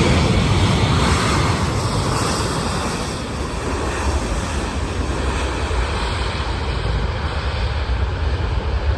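Jet airliner engine noise, loud at first and falling away over the first few seconds as the landing plane passes, then a steady low rumble.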